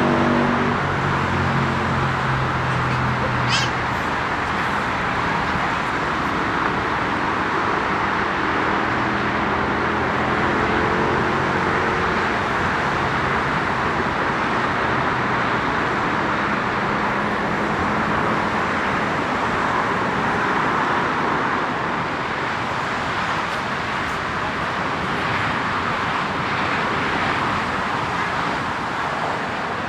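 Airbus A350-900's Rolls-Royce Trent XWB jet engines passing at the airport: a steady rushing noise with whining engine tones that fall in pitch and fade out over the first dozen seconds as the airliner moves away.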